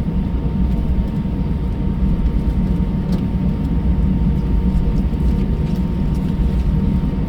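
Cabin noise inside an Airbus A320, most likely while taxiing: a steady low rumble from the engines and airframe, with a faint steady higher hum and a few light ticks.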